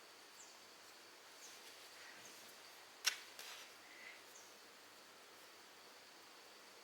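Very quiet handling of jersey fabric while pins are put in, with light rustles and one sharp click about three seconds in. Faint short high chirps sound now and then.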